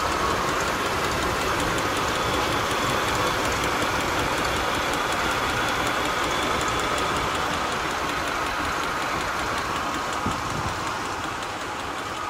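1993 GMC Jimmy's 4.3-litre V6 idling steadily with the hood open, with a steady high whine over the engine note. It gets slightly quieter near the end.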